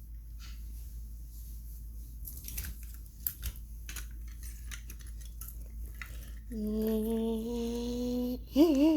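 Light clicks and knocks of small toy cars and trucks being handled. About six and a half seconds in, a voice hums one steady held note, breaks off, then starts again with a pitch that swings up and down.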